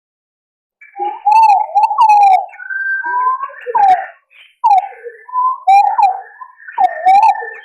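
Green pigeons (punai) calling, played as a hunting lure: wandering whistled notes that slide up and down in short phrases with brief gaps, starting about a second in.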